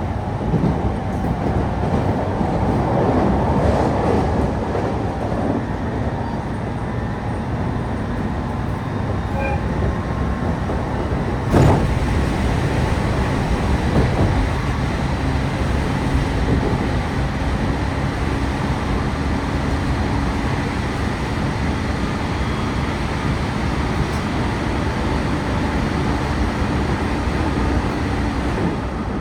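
Running noise of a train heard from inside the passenger car: a steady rumble of wheels on rails, with one sharp knock about twelve seconds in.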